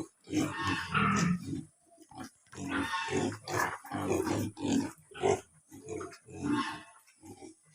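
Domestic pigs grunting in a run of short, rough grunts, with a brief pause about two seconds in.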